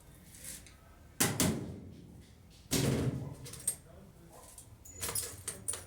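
Two loud knocks about a second and a half apart, then a quick cluster of lighter knocks near the end, as of hard objects being handled and set down.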